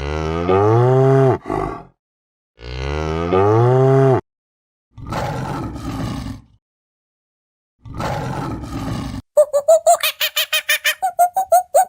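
A cow mooing: two long, low calls, followed by two shorter, rough, breathy calls. Near the end a bird starts a fast run of short, high, clucking calls, about eight a second.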